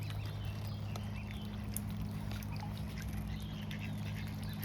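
Scattered faint, short high calls of waterfowl and their young over a steady low hum.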